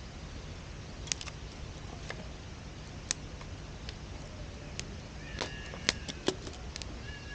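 Wood fire crackling in a campfire pit: scattered sharp pops and snaps, the loudest just before and after the six-second mark, with a brief high whistling tone about five seconds in.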